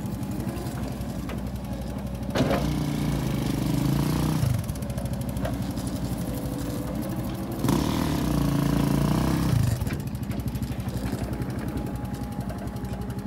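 Honda CRF110F pit bike's small single-cylinder four-stroke engine running at low revs. The throttle is opened twice for about two seconds each, about a third of the way in and again past the middle, and each time the engine drops back to a low run.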